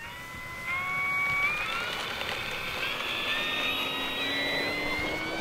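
Electric brushless motor and propeller of a 1.5 m foam RC Focke-Wulf Fw 190 warbird whining on its takeoff run, the whine climbing steadily in pitch as it throttles up and gathers speed.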